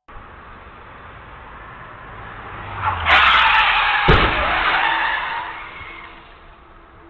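Car tyres skidding on the road, loud for about three seconds, with a heavy crash impact about four seconds in; the noise then fades back to steady traffic noise.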